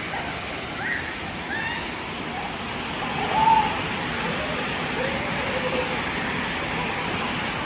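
Steady rushing of a waterfall, with faint distant voices over it now and then.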